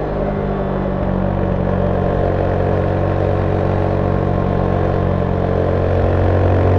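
Zontes 310V motorcycle engine through its stock exhaust, heard from on board while riding. It holds a steady engine speed and gets a little louder near the end.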